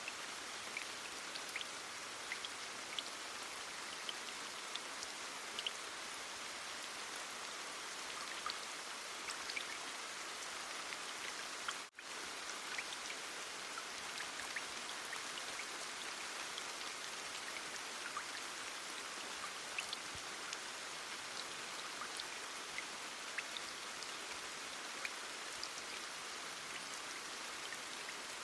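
Steady heavy rain: an even hiss of falling rain with scattered individual drops ticking through it, briefly cutting out for a moment near the middle.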